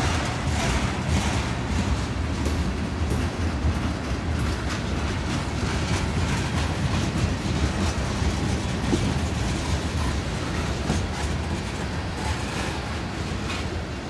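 Freight train of tank cars rolling past close by: a steady rumble of steel wheels on rail, broken by a run of short clicks and clanks from the wheels.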